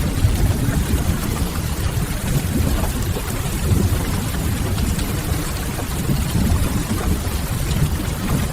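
Steady rain mixed with a wood fire burning in a stone fireplace: an even hiss of rain over a deep, continuous low rumble, with small scattered crackles.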